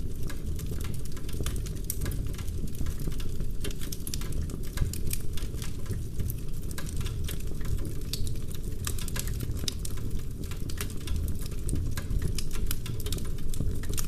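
Wood fire burning in a fireplace: dense, rapid crackling and small pops from the burning logs over a steady low rumble.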